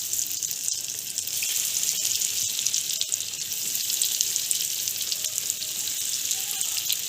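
Cornflake-coated chicken momos frying in hot oil: a steady sizzling hiss with scattered crackles.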